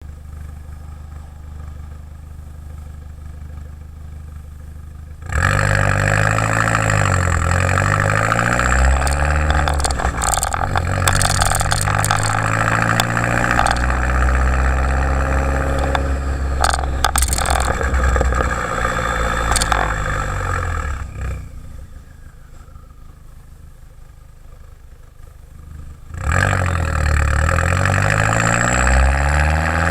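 Exhaust of a turbocharged 1.8-litre four-cylinder Jetta GLI with a 3-inch downpipe and Magnaflow race muffler. It idles for about five seconds, then is revved repeatedly, with the pitch rising and falling. A few sharp cracks come during the revving. It drops back to idle for about five seconds and is revved again near the end.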